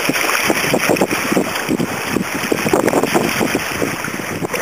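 Wind buffeting the microphone over water rushing and splashing along a kayak's hull as it sails at speed in a strong breeze.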